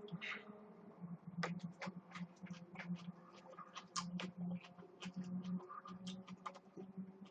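Close-up eating sounds: irregular sharp clicks and smacks from chewing and from utensils against the dishes, several a second, over a faint low steady hum.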